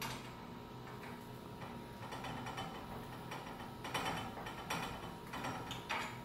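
Irregular metal clicks and clinks from tools working the winding cone of a garage door torsion spring, thickest in the second half.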